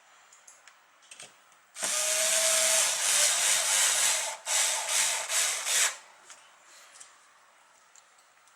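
A small power tool running for about two and a half seconds, then in several short bursts.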